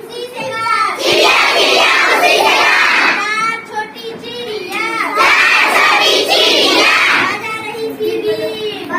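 A group of children chanting and shouting together in phrases, with short breaks between them.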